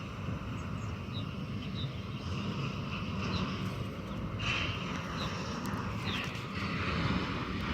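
Airport ambience: a steady low rumble of aircraft and ramp noise, growing a little fuller about halfway through, with a scatter of short high chirps.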